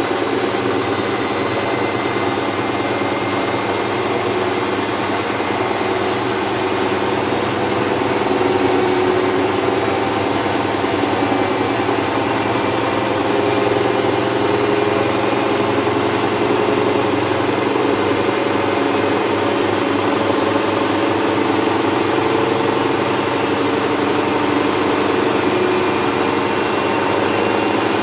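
Hoover Vision Tech washer-dryer running loudly, a steady rush of motor and drum noise with a high whine that climbs slowly in pitch.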